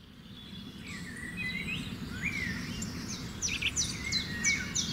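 Garden birdsong over steady low background noise, fading in at the start. From about three seconds in, one bird repeats a quick falling whistle, two or three times a second.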